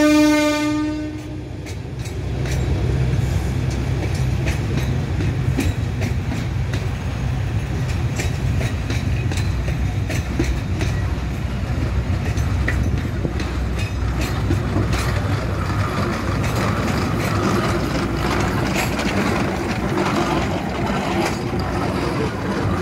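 A narrow-gauge train rolling past with a steady low rumble and frequent clicks of wheels over rail joints. A train horn's held note cuts off about a second in. Rougher noise builds over the last several seconds as the Shay geared steam locomotive comes close.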